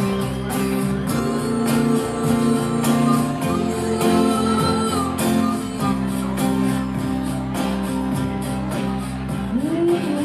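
Live band playing an instrumental break, a guitar carrying a lead line with bent notes over a steady drum beat.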